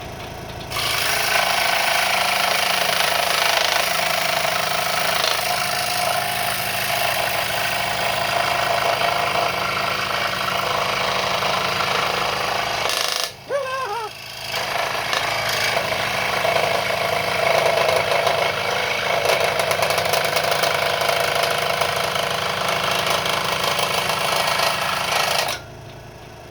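Wen 3921 variable-speed scroll saw running, its reciprocating blade cutting a curve in a board. The cutting noise starts under a second in, breaks off briefly about halfway, resumes, and stops about a second before the end.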